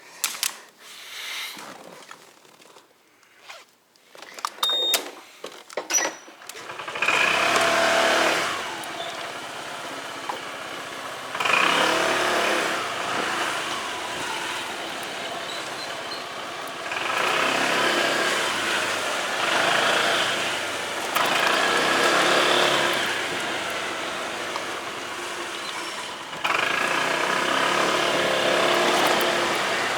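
Delivery motorcycle riding off and running on the road, with wind rushing over the microphone, getting louder in several surges as the throttle opens. Before it sets off there are a few clicks and short high electronic beeps.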